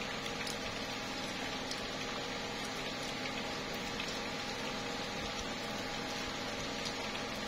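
Slow, steady rain falling on tree leaves, an even hiss with scattered ticks of single drops.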